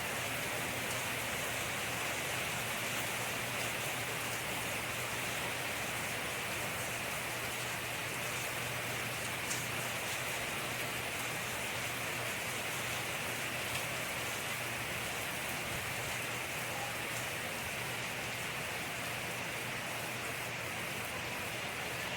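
Steady rain falling, an even hiss, with a few faint drop ticks.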